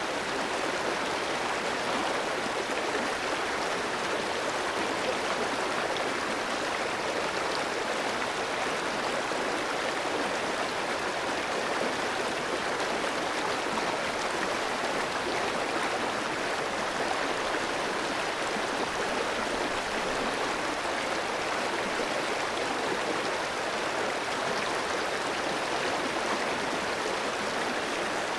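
A clear stream running over rocks: a steady, even rush and babble of flowing water.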